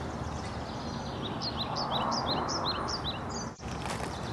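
A small bird singing a quick run of short, falling chirps, about a dozen over roughly two seconds, over steady outdoor background noise.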